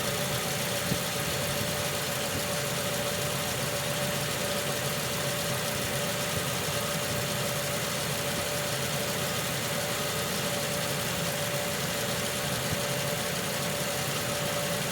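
2011 Toyota Camry's 2.4-litre four-cylinder engine idling steadily while warming up, not yet at operating temperature, as air is bled from the freshly refilled cooling system.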